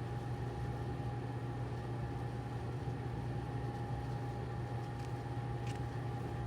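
A steady low mechanical hum with a faint constant higher tone running underneath, unchanging throughout.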